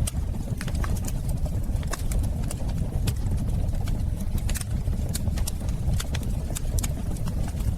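Wood fire burning in a fireplace: a steady low roar with frequent irregular sharp crackles and pops.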